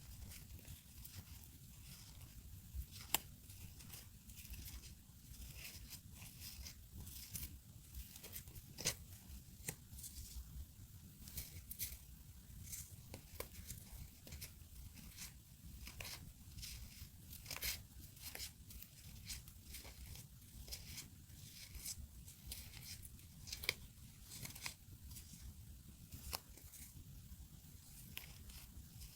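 Close-up handling of paper stickers and masking tape: irregular rustling and tearing with many small sharp ticks and taps, quiet.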